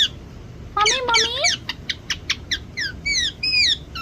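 Pet parrot calling, starting about a second in: a run of quick falling chirps and whistles, then a few longer arched whistles near the end.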